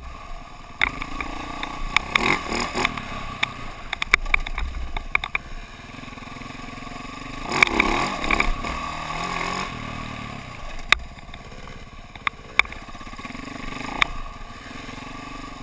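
KTM dirt bike engine running, swelling and easing off, loudest about halfway through, with sharp clicks and clatter throughout.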